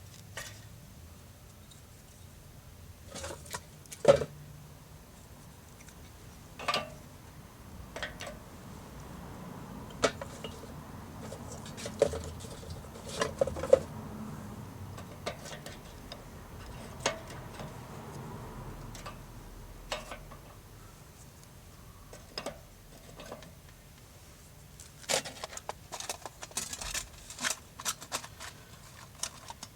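Irregular knocks and clinks of gear being handled and set down while a wood fire is prepared. The loudest knock comes about four seconds in, and a quick run of clicks follows near the end.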